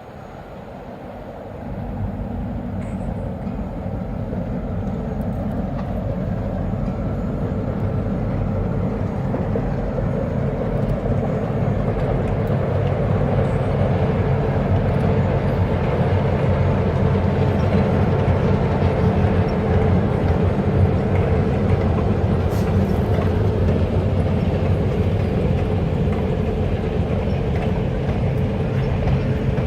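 EMD diesel locomotive leading a passenger train, its engine drone and the rumble of the train growing steadily louder as it approaches over the first half, then holding close.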